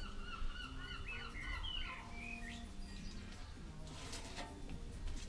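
A bird singing a quick run of short, warbling chirps for the first two seconds or so, faint against low background music. About four seconds in there is a brief papery rustle.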